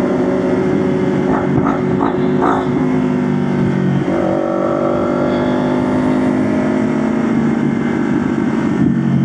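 Motorcycle engine running under way on a ride. Its pitch jumps up sharply about four seconds in, as with a gear change, then slowly falls.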